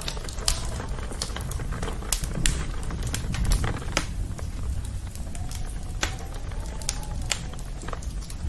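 Campfire crackling: irregular sharp pops and snaps of burning wood over a steady low rumble of flames.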